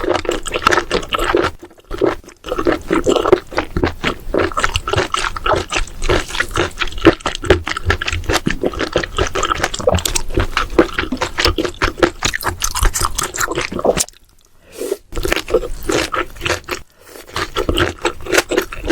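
Mouth sounds of chewing baby octopus and dureup shoots: rapid, dense clicks and smacks, with a short pause about fourteen seconds in.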